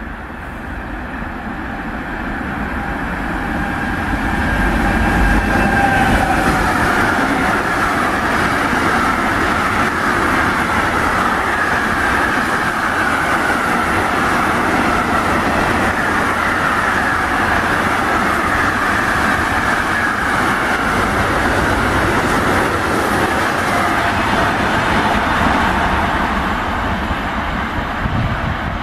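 Container freight train passing close by. Its noise builds as it approaches, a high whine drops in pitch about six seconds in, then the wagons go by with a long steady rumble and rattle on the rails that eases near the end.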